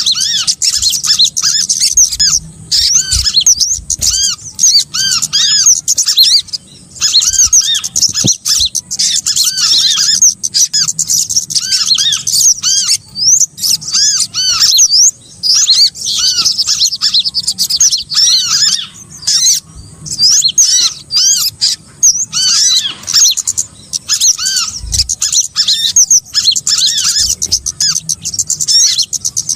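Bird-trapping lure recording of small birds calling: a dense stream of high, arching chirps and squeaky notes overlapping with hardly a pause.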